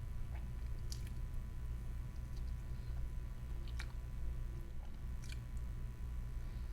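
Close-miked chewing of a chewy mochi donut by someone wearing braces, with a few short sharp clicks about 1, 4 and 5 seconds in, over a steady low hum.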